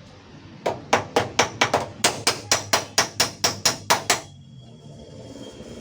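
Hammer tapping rapidly on a car door's sheet-metal panel, about four sharp ringing strikes a second for roughly three and a half seconds, working out a small dent.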